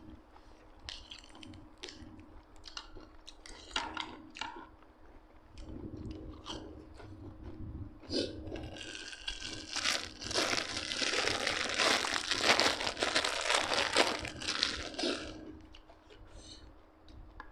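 Close-up eating sounds: scattered crunches and chews of food, with a louder stretch of dense crackling, like crinkling, from about halfway in for several seconds.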